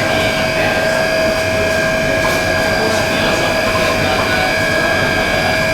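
Plastic compounding and pelletizing line machinery for PE with calcium carbonate, running steadily: a loud, even machine noise with a constant high-pitched whine.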